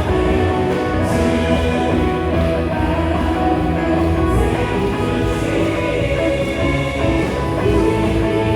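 Live worship band playing a praise song, with electric guitar, bass guitar, drums and keyboard.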